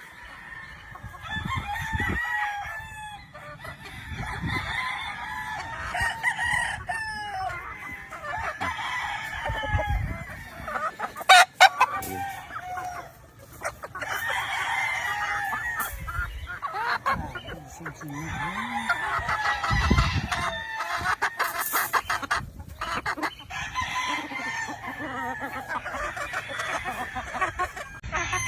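Many gamefowl roosters crowing over one another, with clucking among them. A couple of sharp, loud knocks come about eleven seconds in.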